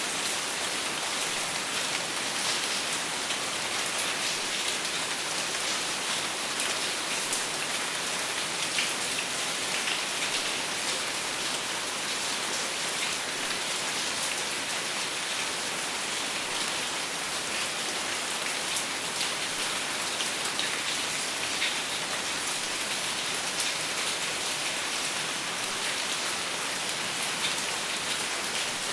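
Steady rain falling on a surface, a dense even hiss with many small drops pattering, and no thunder.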